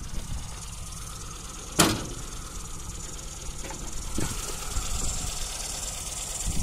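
A 1985 Austin Rover Mini's 1000 cc A-series four-cylinder engine idling with a steady low rumble. A single sharp knock about two seconds in, and fainter knocks later.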